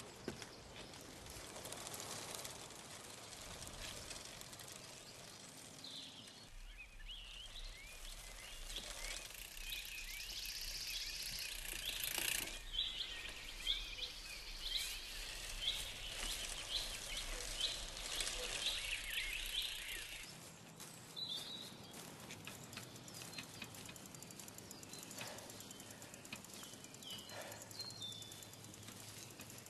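Birds singing over a faint outdoor background hush. The birdsong is busiest through the middle, with scattered calls after that.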